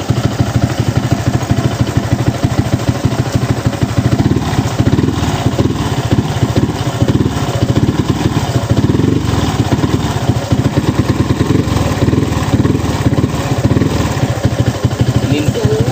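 Small single-cylinder four-stroke motorcycle engine, freshly built, idling steadily with an even, rapid beat and no revving.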